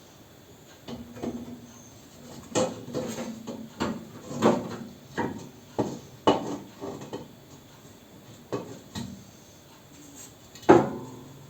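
Metal clanking and knocking as the top cover of a Centrometal ZV 14 pellet stove is handled and set back in place: a string of irregular clanks, with one louder knock near the end.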